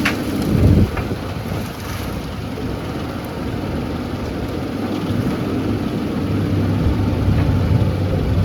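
SANY excavator's diesel engine running steadily, with a brief louder low rumble about half a second in.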